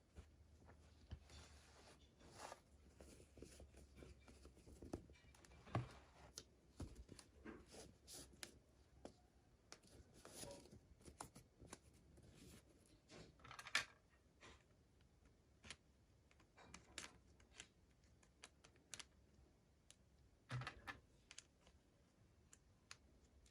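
Faint, irregular clicks, taps and rustles of plastic toy packaging and small doll pieces being handled, with a few sharper clicks now and then.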